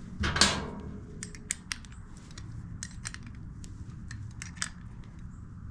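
Small metal tools and carburetor parts clinking and clicking as they are handled: a louder clatter about half a second in, then scattered light clicks, over a steady low hum.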